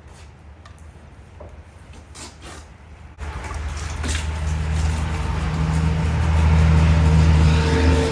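Self-serve car wash pressure washer gun switched on about three seconds in: a loud steady spray hiss over the low hum of the high-pressure pump.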